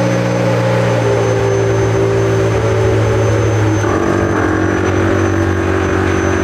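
Ferrari F355's 3.5-litre V8 running at a steady fast idle just after starting. Its tone shifts slightly about four seconds in.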